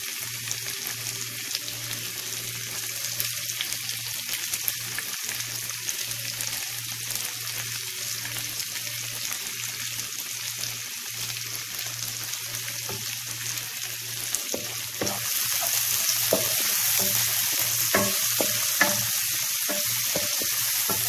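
Chopped onion, garlic and ginger sizzling in hot oil in a non-stick wok, stirred with a wooden spatula, sautéing on a high flame. The sizzle grows louder about two-thirds of the way in, with short scrapes of the spatula against the pan.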